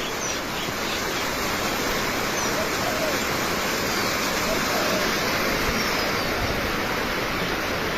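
Steady rushing water noise, with a few faint, brief bird chirps over it.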